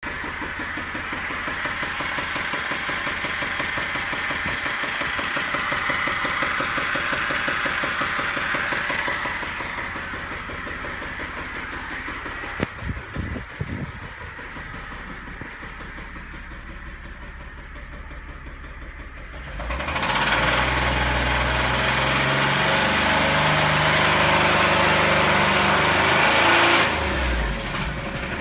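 A 2010 Jeep Wrangler JK's 3.8-litre V6 running with a knock that showed up after work on the EGR. The engine noise quietens about a third of the way in, with a few short thumps partway through, then grows much louder for about seven seconds near the end.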